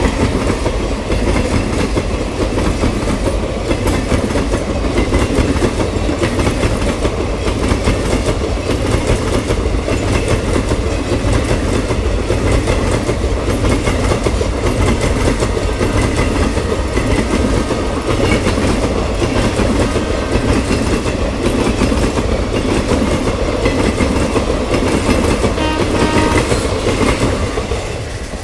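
Express train's passenger coaches passing at speed close by: a loud steady rumble of wheels on rail with repeated clickety-clack. The sound fades near the end as the last coach goes by.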